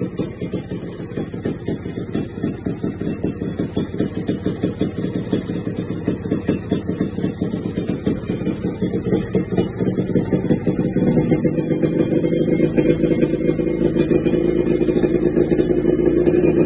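Suzuki Satria single-cylinder two-stroke engine running through an aftermarket Brat expansion-chamber exhaust, with a fast steady exhaust pulse. About ten seconds in the revs climb and the engine is held at a higher, louder speed.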